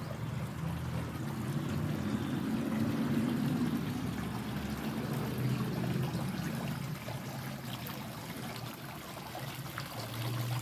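Running water trickling and splashing steadily, a little louder in the first half.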